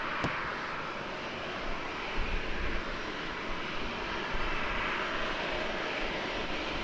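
Airliner jet engines running, a steady rushing noise with no clear change in pitch.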